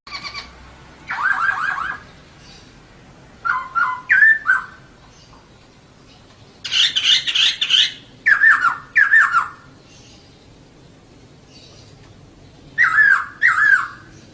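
Female laughingthrush (poksay) calling in short bursts of quick notes that slur downward, four bursts in all with pauses of one to three seconds between them.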